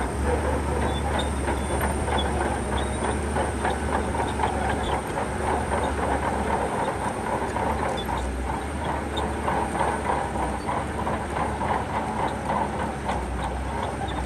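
Shantui crawler bulldozer working: its diesel engine runs steadily while the steel tracks keep up a continuous clanking rattle.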